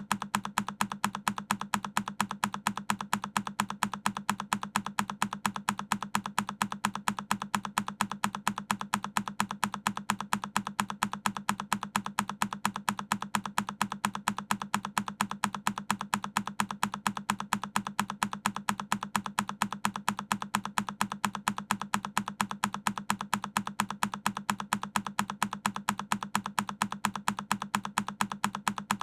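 A single key on a Keychron K10 mechanical keyboard pressed over and over, about three clicky key strokes a second in an even rhythm.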